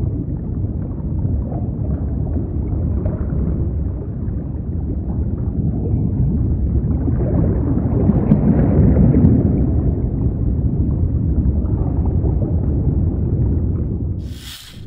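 Low, steady rumbling ambience with no clear pitch, like an underwater soundscape, swelling slightly around the middle. A brief hiss and a sharp click come at the very end.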